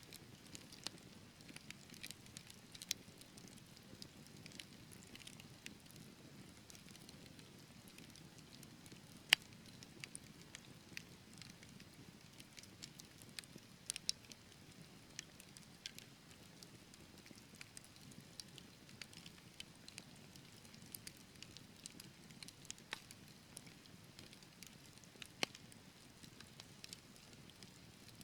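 Wood fire burning in a fireplace: faint, irregular crackles and pops from the burning logs over a soft low rush of flame, with one sharp pop about nine seconds in.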